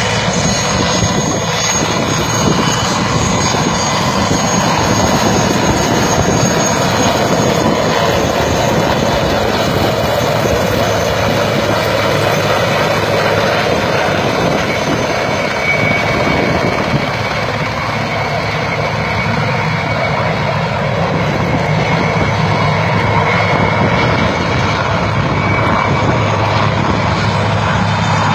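Aircraft engine running steadily and loudly, with a few faint steady whining tones above the engine noise.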